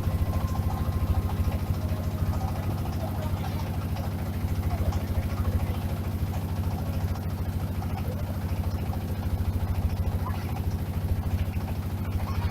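An engine running steadily with an even, low, rapid pulse, with no change in speed.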